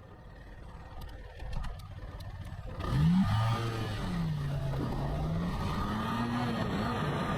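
Motorcycle engine: quiet at first with a few light clicks. About three seconds in it opens up loudly, its pitch climbing as it accelerates, then dropping and climbing again as it shifts through the gears.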